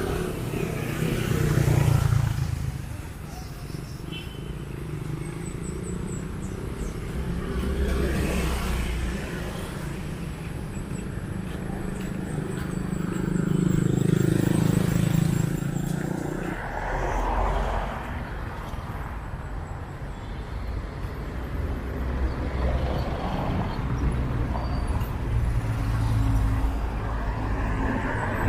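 Street traffic: motor vehicles passing one after another, their engine rumble swelling and fading several times, loudest about two seconds in and again around the middle.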